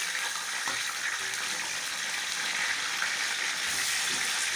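Chicken leg pieces and browned onions frying in hot ghee in a large metal pot, a steady sizzle.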